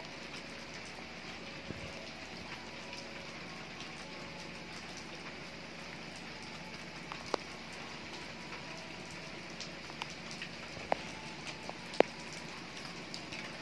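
Heavy rain falling steadily, an even hiss with the occasional sharp tick of a drop, the loudest near the end.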